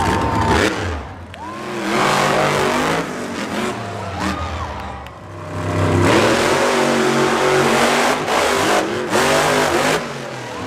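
Monster truck engine revving hard in repeated surges, its pitch rising and falling, loudest about two seconds in and again from about six seconds in until near the end.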